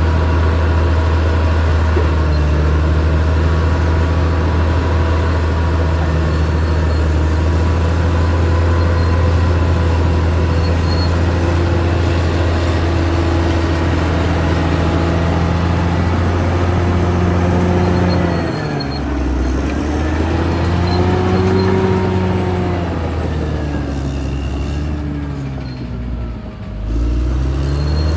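Caterpillar D6R XL bulldozer's diesel engine running steadily under work. Its note drops and recovers twice, about two-thirds of the way through and again near the end.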